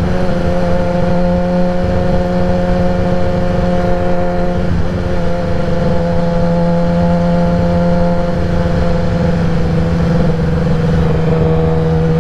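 2016 Kawasaki ZX-10R's inline-four engine with a Graves race exhaust running at a steady cruise. Its note holds a nearly constant pitch, dips slightly about five seconds in, and eases a little lower near the end.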